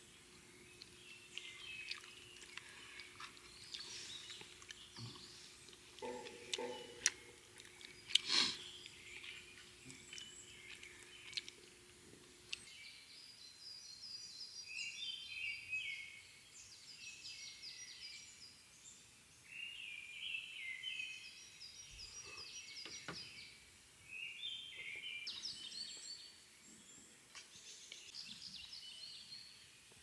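Songbirds singing among forest trees: short, high trilled phrases repeated again and again, busiest in the second half. In the first half there are a few sharp clicks, the loudest about eight seconds in, and a faint low hum that stops about twelve seconds in.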